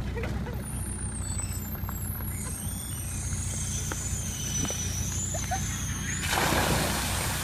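Tractor engine running steadily. About six seconds in, a rush of pouring water starts, the drenching of the ice bucket challenge.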